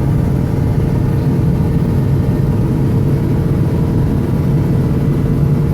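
Snowplow vehicle's engine running steadily as it drives, a loud, even low drone.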